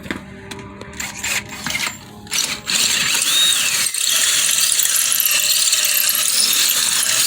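Scattered clicks and knocks, then about two and a half seconds in a power drill starts and runs steadily, boring out the too-small pin hole in a parking brake cable clevis so the pin will fit.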